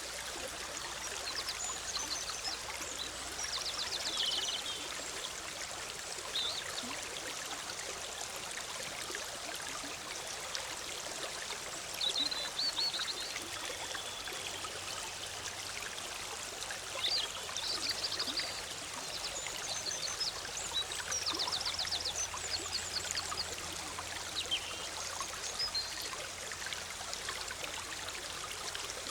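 Forest stream bubbling and rushing steadily over rocks, with songbirds calling in short high chirps and trills every few seconds, most densely about two-thirds of the way through.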